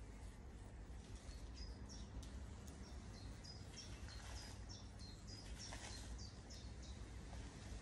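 A small bird singing a run of short, high chirps, often in pairs, starting about a second and a half in and stopping about six and a half seconds in, over a steady low outdoor rumble.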